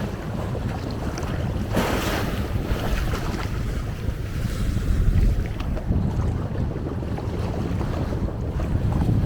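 Wind buffeting a small camera's microphone in a low, uneven rumble, over the wash of sea waves on the shore, with a brief louder gust or wave rush about two seconds in.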